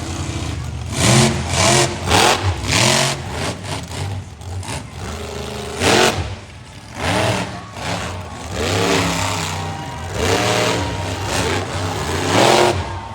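Monster truck's big-block V8 engine revving hard in repeated blips, about eight in all, each one rising and falling in pitch with a loud blast of exhaust.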